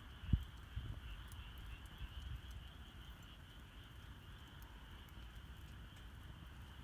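Wood fire burning softly, with scattered small crackles and a low thud about a third of a second in, over a steady high-pitched chorus of the outdoor night.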